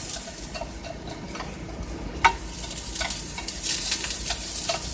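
Cut asparagus sizzling in olive oil in a frying pan while it is stirred, a utensil clicking and scraping against the pan now and then, with one sharper knock about two seconds in.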